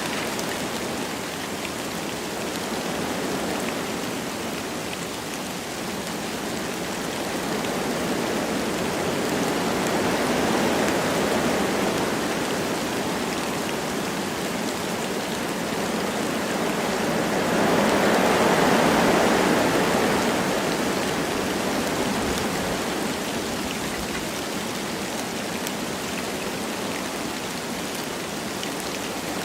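Wind blowing through forest trees with light rain falling, a steady rushing that swells and eases in slow gusts. The strongest gust comes about two-thirds of the way through.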